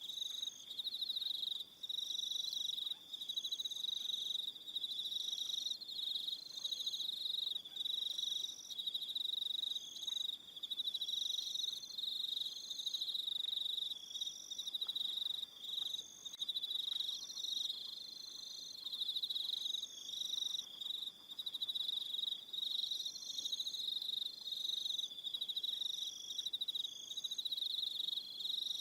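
Evening chorus of crickets: a dense, steady high trill, overlaid by shorter, higher-pitched chirps that repeat about once a second.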